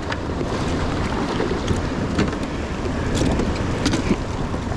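River water rushing steadily, mixed with wind rumbling on the microphone, with a few light clicks scattered through it.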